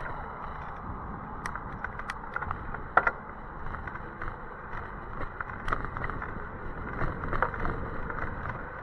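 E-bike ride noise in the rain: a steady hiss of tyres and wind, with scattered clicks and rattles and one sharper knock about three seconds in.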